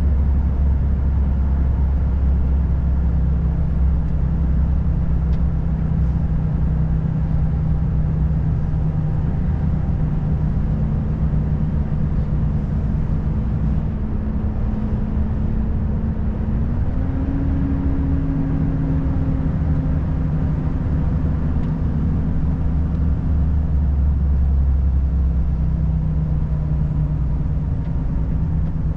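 Volvo FH540 truck's 13-litre straight-six diesel running steadily under way, with road noise. About two thirds of the way through, its pitch steps up for a few seconds, then settles back down.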